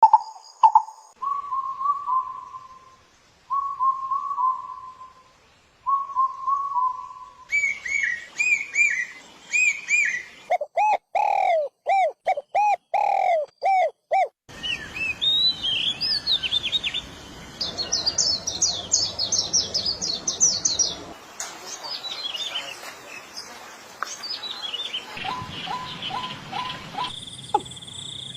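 Bird song and calls: runs of repeated whistled notes and chirps, some gliding up and down in pitch. The pattern and background change abruptly several times, as if separate recordings were spliced together.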